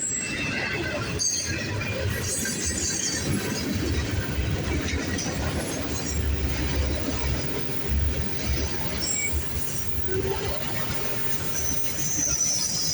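CSX freight train cars rolling past, a steady rumble of steel wheels on the rails with brief high squeals now and then.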